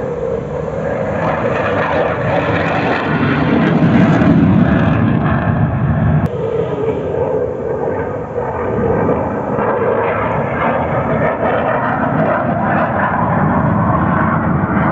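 Military jet aircraft flying past, a loud steady engine rush that swells about four seconds in and then eases.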